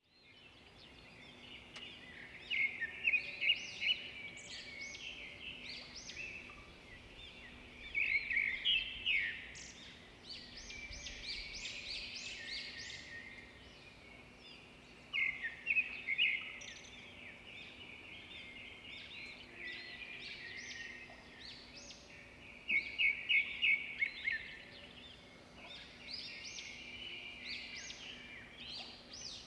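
Songbirds singing: clusters of rapid chirps and trills every few seconds, loudest in bursts about 3, 8, 15 and 23 seconds in, over a faint steady hum.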